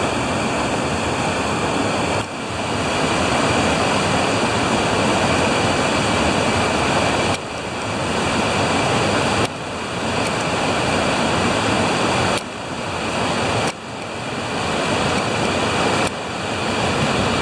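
Small waterfall: water falling and rushing steadily. The level drops suddenly several times and then climbs back.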